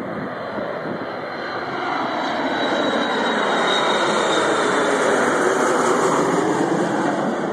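Small jet airliner on final approach passing low overhead: engine noise swells to its loudest about five or six seconds in, with a high turbine whine that slides slightly down in pitch as the jet goes over.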